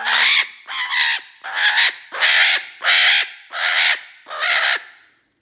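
Eclectus parrot squawking harshly in an agitated, aggressive mood: about seven loud rasping calls in a steady rhythm, roughly three every two seconds, that stop near the end.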